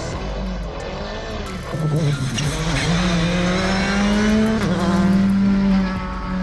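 Rally car engine under hard acceleration, its note climbing and dropping back with gear changes. It grows louder about two seconds in.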